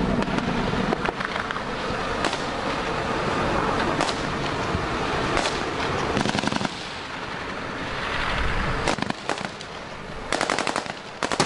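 Small-arms gunfire in combat: scattered single shots, then rapid bursts of automatic fire near the end.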